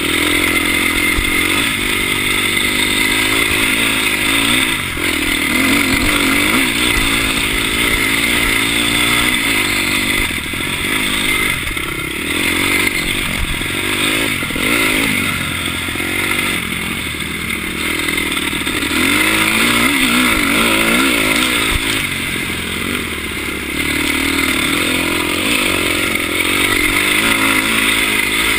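Dirt bike engine running under the rider, its pitch rising and falling again and again as the throttle is opened and closed.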